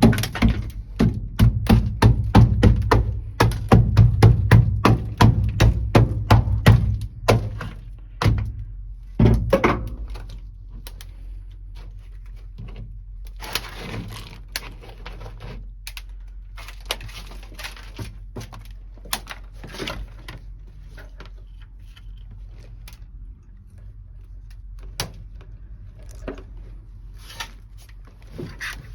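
Rubber mallet blows, quick and regular at about three a second for the first nine seconds, then scattered sharp cracks and short scraping as dry-ice-chilled sound deadening is broken up and pried loose.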